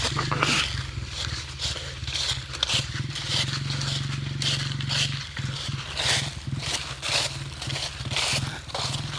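Dirt bike engine idling low, cutting out about five seconds in. Rhythmic heavy panting, about two breaths a second, runs throughout.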